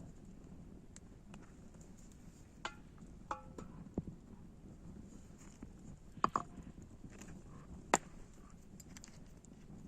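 Scattered knocks and clinks of cooking utensils during food preparation, about half a dozen single strikes, a couple of them ringing briefly, over a low steady background noise.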